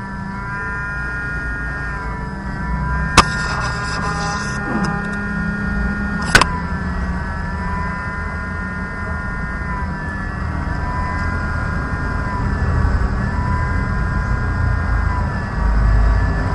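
A steady hum with a slightly wavering tone, broken by two sharp clicks about three seconds apart; the first click is followed by a second or so of hiss.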